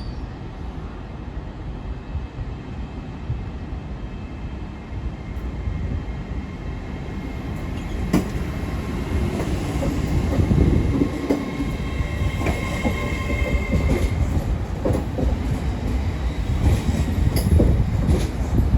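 A train moving at a station, a steady low rumble that grows louder through the second half, with a faint high whine about two-thirds of the way in and scattered clicks from the wheels.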